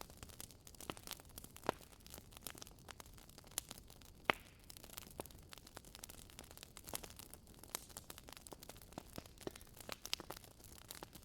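Wood fire burning in a fireplace, crackling with many small, irregular pops and snaps over a faint hiss. Two louder pops come about two seconds in and about four seconds in.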